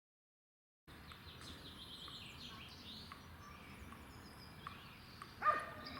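Faint outdoor park ambience with small birds chirping and twittering. It starts about a second in, after a brief dead silence.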